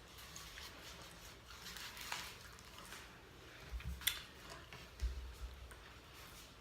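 Faint handling sounds of fast food and its packaging on a table: a few short clicks and rustles, with a couple of soft low thumps about four and five seconds in.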